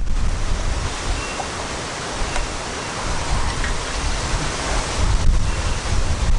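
Wind buffeting the microphone: a steady rushing hiss with gusty low rumble.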